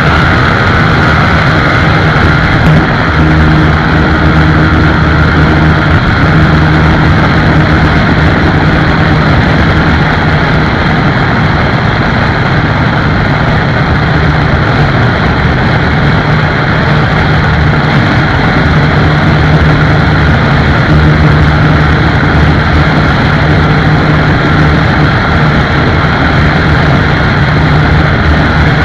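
Motorcycle engine running at a steady cruising speed, its low engine note holding even, over a steady rush of noise.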